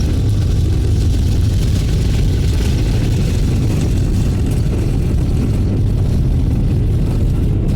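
Steady, loud low rumble of an Airbus A330 airliner's engines heard inside the passenger cabin.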